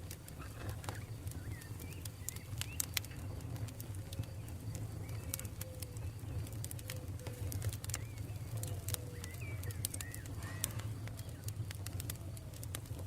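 Campfire burning, with irregular crackles and sharp pops over a steady low rumble. Faint, short bird calls sound in the background.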